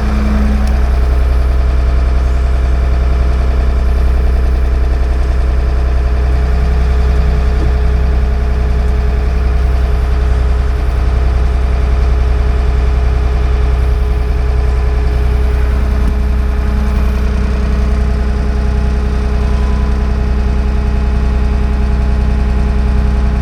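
Freshly rebuilt diesel engine of a 1978 Ford 555 backhoe running steadily, an even, unbroken drone.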